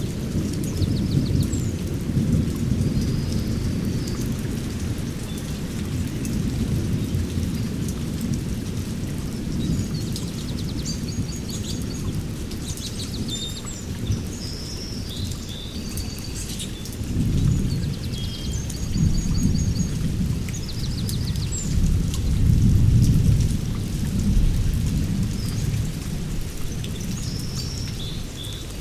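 Steady rain with thunder rolling low underneath, heavy at first and swelling twice more in the second half. Birds chirp and trill in short calls throughout.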